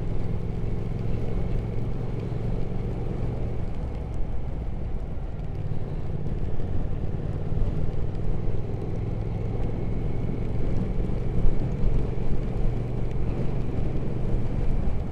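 Motorcycle on the move: a steady engine hum under wind and road noise, easing off briefly about four seconds in and then picking up again.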